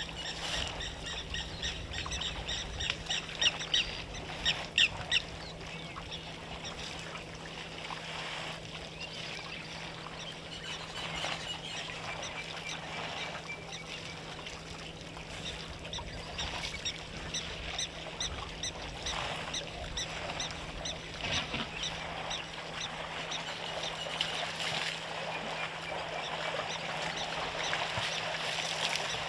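Waterhole ambience with birds calling over and over in quick runs, busiest in the first six seconds and returning now and then, over a steady low hum.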